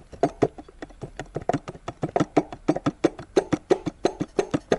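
A removed dual-mass flywheel knocking rapidly, about five sharp metallic clacks a second, as it is worked by hand. This is the knock of a worn dual-mass flywheel whose halves no longer spring against each other as they should.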